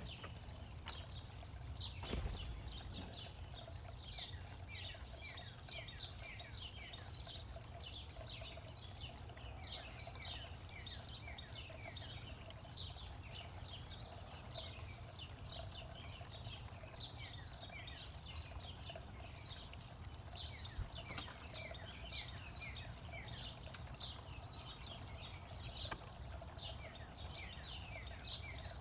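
Small songbirds chirping in a continuous chorus: many short, quickly falling chirps, several each second, from more than one bird. A steady faint hum runs beneath, and there is a single knock about two seconds in.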